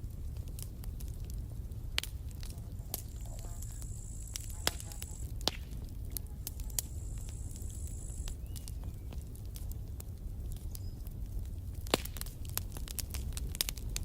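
Wood campfire crackling: a steady low rumble of flames under scattered sharp pops and a few louder snaps, the crackling growing denser near the end. A thin, high hissing tone comes and goes twice in the middle.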